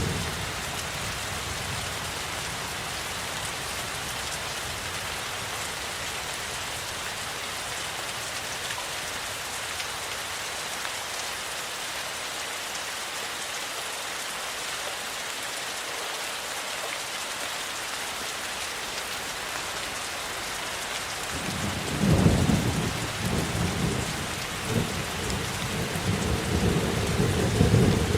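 Steady rainfall with thunder. A low rumble dies away right at the start, then about 22 seconds in a loud peal of thunder breaks and keeps rumbling in swells.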